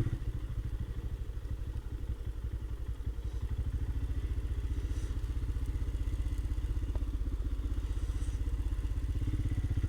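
Royal Enfield Himalayan's 411 cc single-cylinder engine running at low revs, a steady, even beat of firing pulses.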